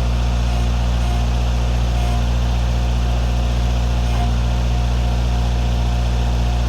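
Tractor engine running at a steady, unchanging speed, a continuous low drone.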